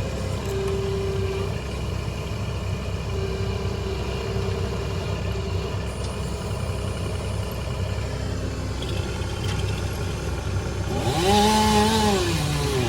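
An engine runs steadily at low speed; about eleven seconds in, a chainsaw revs up loudly, its pitch rising, holding and then dipping.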